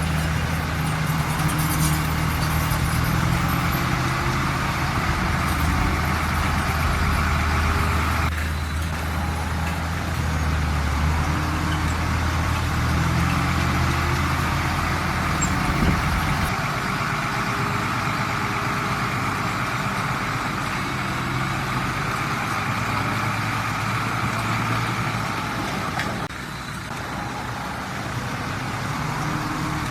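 Heavy diesel engine of earthmoving machinery running steadily. Its deep low hum drops away about halfway through, and the engine runs on more lightly.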